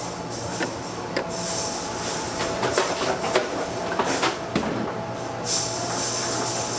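A machine humming steadily with a held tone, with irregular clattering and knocks on top, thickest in the middle.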